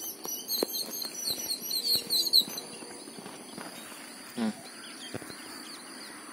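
Small birds chirping in quick succession for the first two seconds or so, over a faint outdoor background; after that it goes quieter, with a few small knocks and one brief low call about four seconds in.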